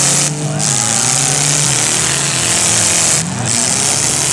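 Several compact demolition-derby car engines running and revving together, their pitch rising and falling, over a steady loud hiss. The sound drops briefly about half a second in and again just after three seconds.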